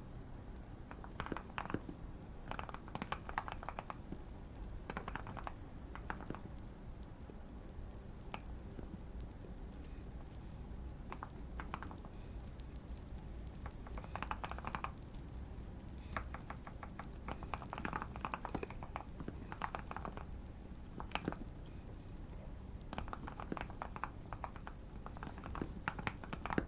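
Typing on a Keychron Q1 mechanical keyboard with Fierce Girl switches and tape and PE foam mods: bursts of rapid keystrokes, each lasting a second or two, with short pauses between them.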